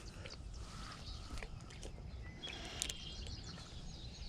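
Faint outdoor ambience: a low steady rumble with a few brief bird chirps and scattered light clicks.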